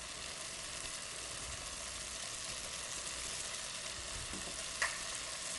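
Chicken pieces sizzling steadily as they brown in a pot on the stove, an even hiss with one light click about five seconds in.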